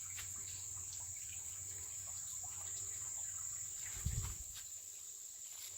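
A steady high-pitched drone of insects, like crickets in summer woods, with a short low thump about four seconds in.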